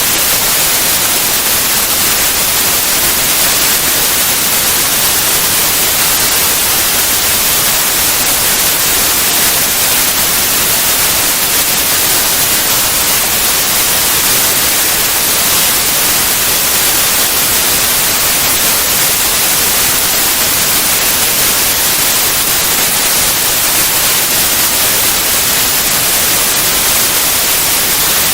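Steady white noise: an even, unchanging hiss across all pitches, strongest in the highs.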